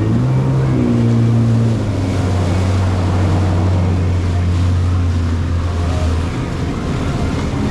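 Jet ski engine running steadily under wind and water spray noise, its pitch shifting briefly in the first couple of seconds; the engine tone drops away about six seconds in.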